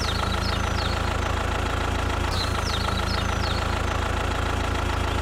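Mini tractor engine idling steadily with an even low pulsing hum, with a few short, high, falling chirps over it, about a second in and again near three seconds.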